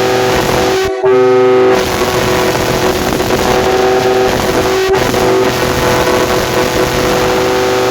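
Multi-chime railroad air horn blowing a steady, loud chord of several tones, with a brief break about a second in before it sounds on.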